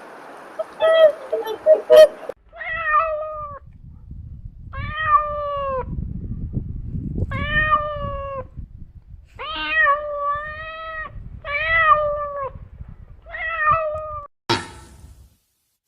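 Cat meowing over and over, about six or seven separate meows of under a second each, starting a couple of seconds in. A sharp click comes near the end.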